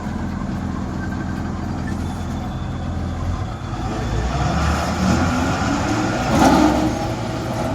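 Heavy diesel machinery engine running steadily, then from about four seconds in its note changes and it grows louder and rougher, surging to its loudest about six seconds in.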